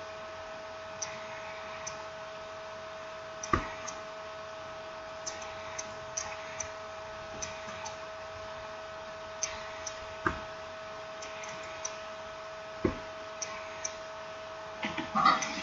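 Scattered light clicks and three sharper knocks of small tools and smartphone parts being handled while reassembling the phone, over a steady electrical hum. A busier burst of handling noise comes at the very end.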